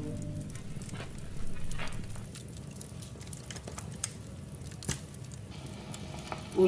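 Wood fire crackling in a fireplace: a low steady hiss with a few sharp pops scattered through it.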